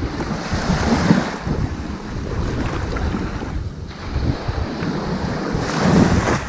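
Ocean waves washing onto a sandy beach: a steady hiss of surf that swells twice, about a second in and again near the end, with a lull between.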